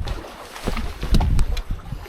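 Wind buffeting the microphone in gusts, with several sharp knocks or clicks in the middle.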